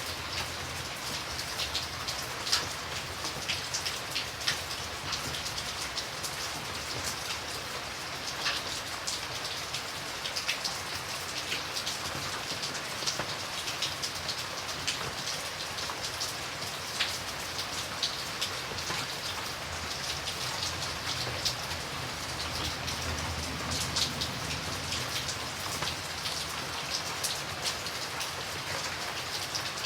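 Steady rain falling, with many close, sharp drops pattering on a surface.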